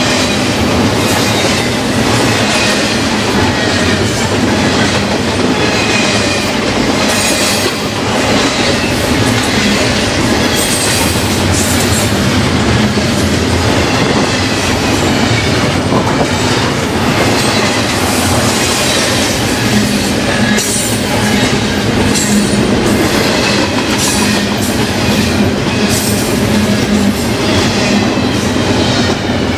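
BNSF double-stack intermodal freight cars rolling past at speed close by: a loud, steady rush and rumble of steel wheels on rail, broken by repeated clacks as the wheels cross rail joints.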